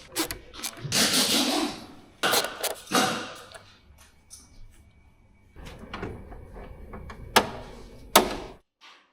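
Clicks, knocks and scraping of the plastic air filter housing and its cover being fitted back in place by hand and with tools, ending in two sharp clicks before the sound cuts off suddenly.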